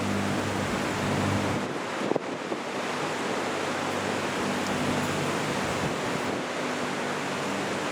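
Steady wind and water noise over the harbour, with a low boat-engine hum that fades in and out and a single short knock about two seconds in.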